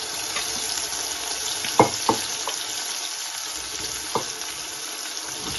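Spiced okra pieces deep-frying, just dropped into oil that has come up to heat: a steady sizzle. A few sharp taps of the metal strainer on the pan come about two seconds in, again just after, and about four seconds in; the first is the loudest.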